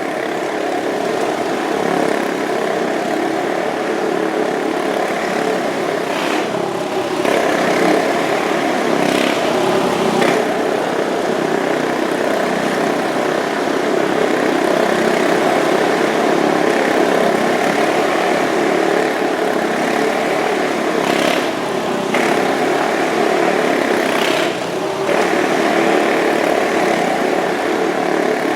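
Motorcycle engines running steadily in a continuous drone, with a few brief swells.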